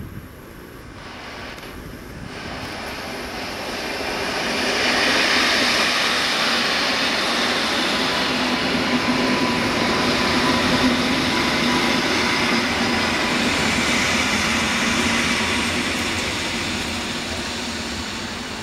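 Electric multiple unit passenger train running past at close range: a continuous rolling rumble and hiss of wheels on rail that builds about four seconds in, stays loud through the middle with a steady hum under it, and eases off near the end.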